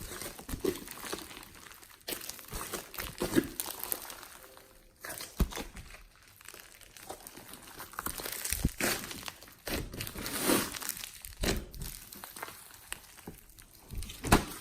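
Slime being squeezed, stretched and mixed by hand, giving irregular wet crinkling and crackling with sharp clicks scattered throughout.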